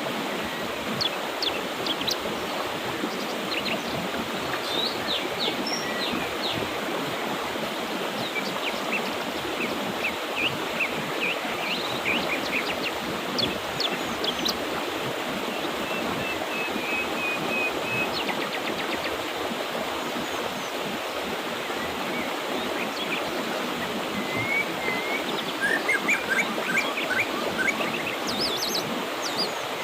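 Mountain river flowing steadily, with birds chirping and whistling over it in short calls that come thicker near the end.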